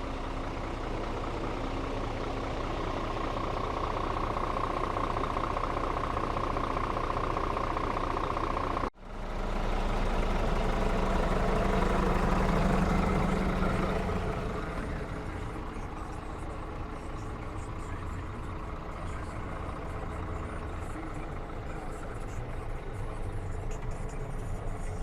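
Scania R450 truck's 13-litre six-cylinder diesel engine idling steadily. It cuts out abruptly for a moment about nine seconds in, then comes back louder for a few seconds before settling to a steady idle again.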